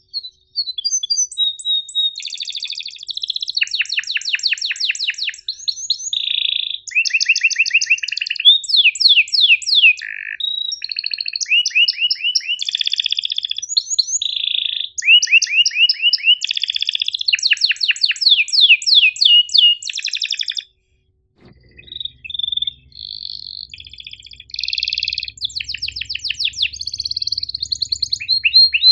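Domestic canary singing a long song of rapid rolling trills and sharp chirps. The song breaks off for about a second some two-thirds of the way through, then resumes over a faint low hum.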